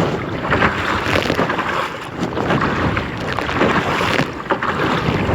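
Wind buffeting the microphone over choppy river water splashing around a kayak, a loud, steady rush with irregular splashes.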